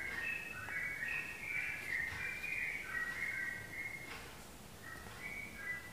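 Birdsong: a continuous run of short, high whistled chirps that jump from pitch to pitch.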